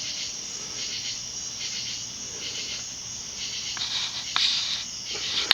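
Steady high-pitched chirring of insects, cricket-like, with a couple of faint clicks about four seconds in and again near the end.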